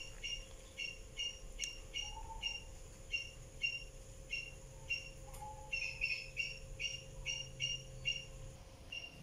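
A bird chirping over and over in short, evenly spaced chirps, about two to three a second, with a short pause near the end.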